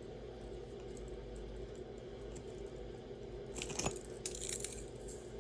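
Small metal jewelry, a locket pendant on its chain, clinking and jingling as it is handled, in a short cluster of light clinks about three and a half seconds in, over a faint steady hum.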